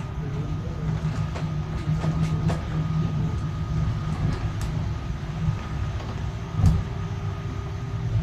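Tram running on its rails: a steady low rumble with light clicks and a faint steady whine, and one louder knock about two-thirds of the way through.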